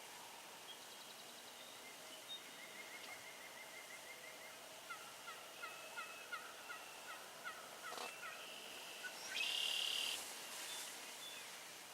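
A wild turkey gobbling once, briefly and loudly, about three-quarters of the way through, over songbirds singing runs of short repeated notes.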